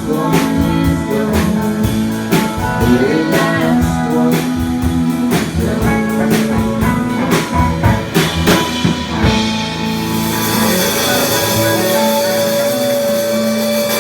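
Live band playing the instrumental close of a blues-tinged song: guitar lines over a drum kit keeping a steady beat. About ten seconds in, a cymbal wash and a long held note take over as the song winds down.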